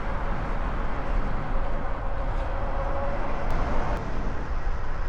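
Steady road traffic noise heard from a moving e-bike on a city street, with a deep rumble underneath and a faint steady hum for a couple of seconds in the middle.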